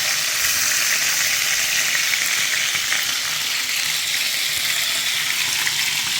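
Food frying in hot oil: a steady sizzle with many small crackles.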